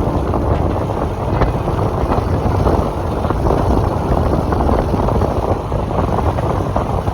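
Wind buffeting the microphone: a loud, steady rumble that sits mostly in the low range and flutters rapidly.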